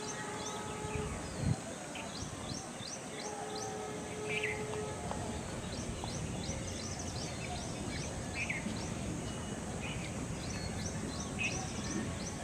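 Birds calling outdoors: runs of quick, high chirps and a shorter call that comes back every couple of seconds, over a steady background hiss.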